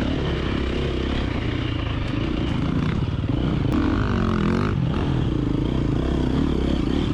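KTM 350XC-F dirt bike's single-cylinder four-stroke engine running through trail riding, the revs dropping and climbing back up about four seconds in.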